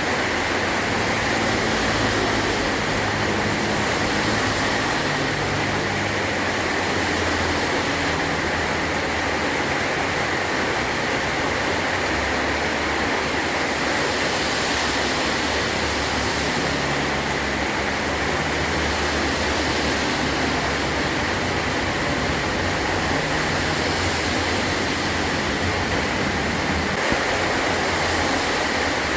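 Heavy rain drumming steadily on a metal roof, an even dense hiss with a low rumble underneath.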